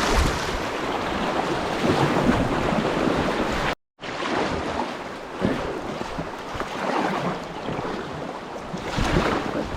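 Shallow river water rushing and splashing around a packraft as it drifts down a riffle. The sound cuts out completely for a moment about four seconds in, then carries on slightly quieter.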